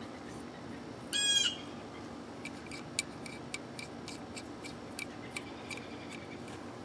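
Powr-Kraft locking adjustable wrench being handled: a short high squeak about a second in, then a run of light metallic clicks, about two a second, as the locking thumb wheel is worked.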